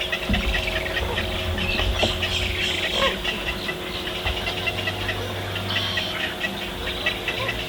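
Many birds at a wading-bird nesting colony calling at once, in a dense chatter of short, overlapping calls.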